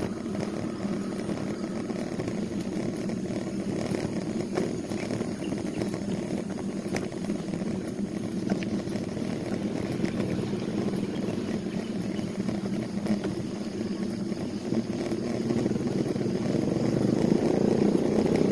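A motor vehicle engine running steadily, growing louder near the end.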